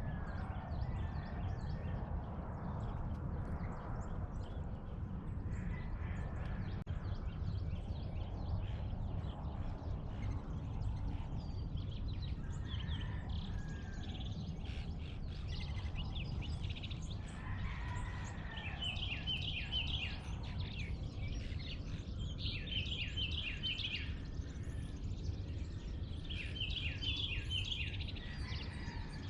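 Dawn chorus of many small birds chirping over a steady low rumble. From about two-thirds of the way in, one songbird repeats a phrase of quick, downward-slurred whistles every few seconds.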